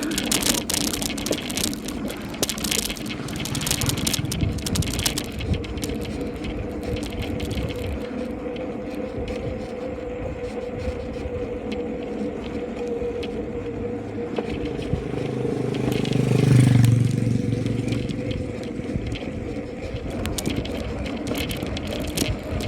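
Bicycle ridden over a rough road: rattling and clicking of the frame and parts with steady tyre and ride noise. A louder low rumble swells and fades about 16 to 17 seconds in.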